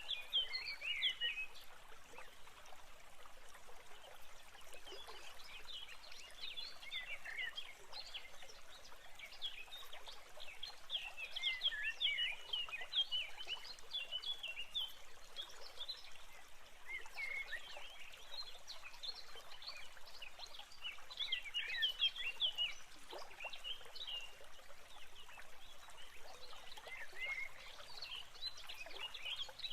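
Many birds chirping and singing over a faint steady hiss, the calls coming in busy clusters.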